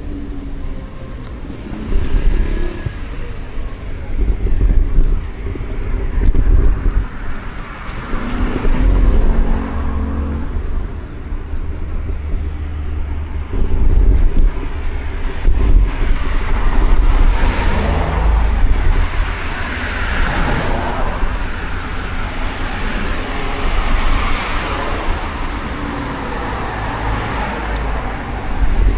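Street traffic: cars passing one after another over a constant low rumble, swelling and fading as each goes by.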